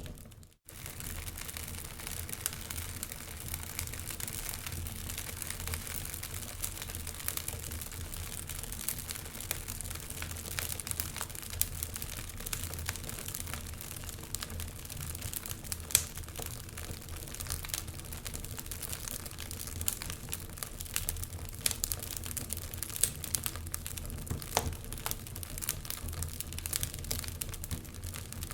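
Wood fire burning in a fireplace, the logs crackling and popping irregularly over a low steady hum. The sound cuts out briefly about half a second in.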